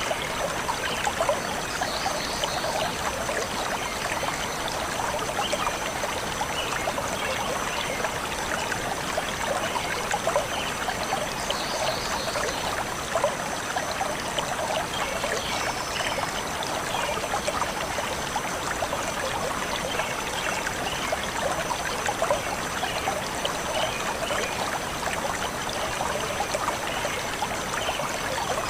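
A forest stream flowing and trickling steadily over rocks, with a few faint bird chirps now and then.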